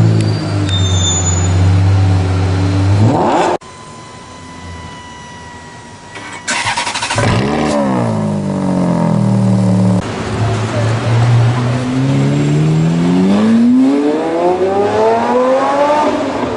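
Sports car engines in edited clips, with rising revs. An engine runs steadily, revs up and cuts off abruptly about three and a half seconds in. After a quieter stretch another engine revs and settles, and near the end an engine climbs steadily in pitch as the car accelerates hard.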